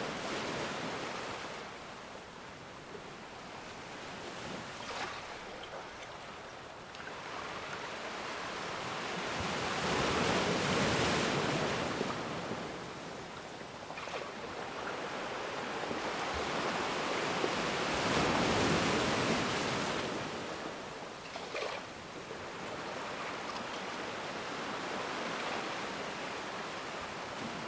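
Ocean surf: a continuous wash of waves that swells and recedes, with two louder surges of breaking waves, near the middle and again about two-thirds of the way through.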